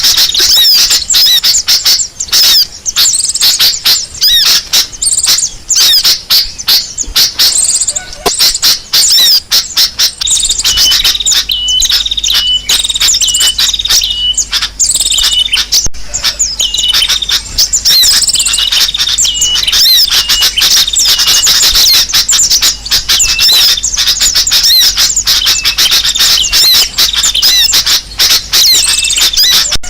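Bird lure recording of many small birds chirping and squawking rapidly and all at once, a dense, noisy high twittering. From about ten seconds in, a short whistled note repeats over it, with a faint low hum underneath.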